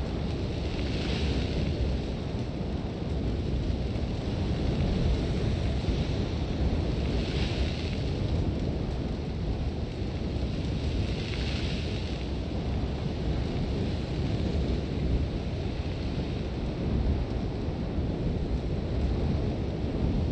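Sandstorm wind: a steady low rumble of wind buffeting the microphone, with a hissing surge of blown sand swelling up three times, a few seconds apart.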